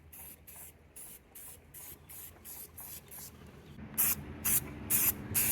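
Short, repeated spray bursts, roughly three a second, each a quick hiss, growing louder in the last second and a half.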